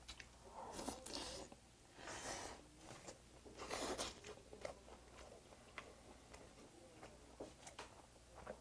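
Close-miked chewing and mouth sounds of a man eating braised semi-dried pollack (kodari), coming in a few short bursts with small clicks between.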